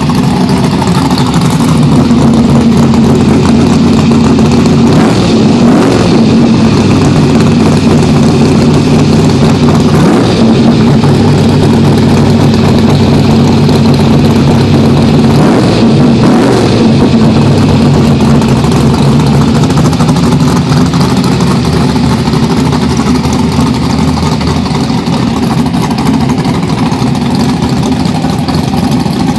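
Chevy II Nova drag car's engine running loudly at idle as it rolls up to the starting line, with a couple of short rises in revs about five and sixteen seconds in.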